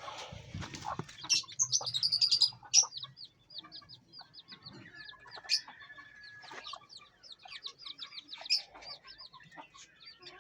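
Chickens clucking amid a rapid run of short, high-pitched chirps from small birds.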